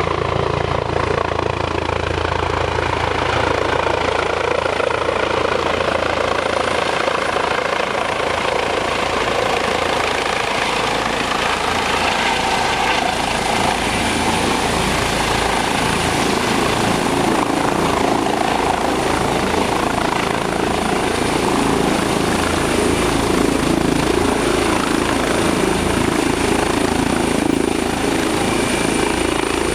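Eurocopter EC135 medical helicopter running close by: dense, steady rotor and turbine noise with a thin high whine over it.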